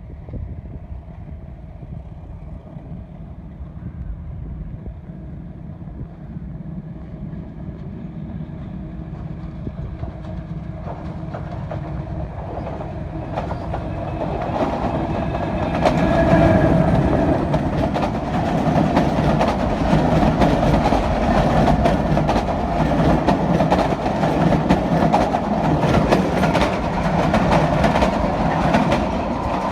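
A train approaches, growing steadily louder over about fifteen seconds, then runs close past with its wheels clattering rhythmically over the rail joints. Wind rumble on the microphone underlies the quieter opening.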